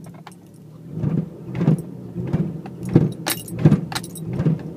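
Toyota MR2 Turbo engine running steadily, with a string of sharp knocks about every half second to a second. The owner suspects worn engine mounts, front and rear, behind the knocking.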